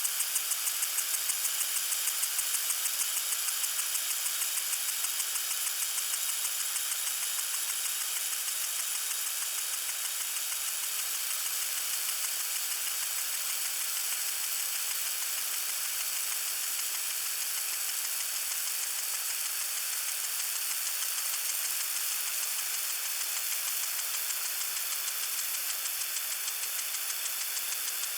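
Lawn sprinkler spraying water: a steady high hiss with a fast, even ticking pulse running through it.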